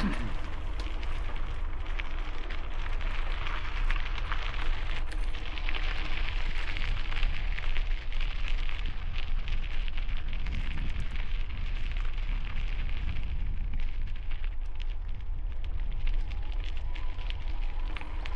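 Bicycle tyres crackling over gravel, with a steady low rumble of wind buffeting the helmet-mounted camera microphone.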